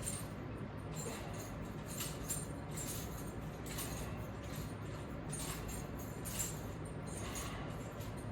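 Metal hardware of resistance bands clipped to a latch bar jingling and clinking in light, repeated bursts as the bands are pulled, over a steady low hum.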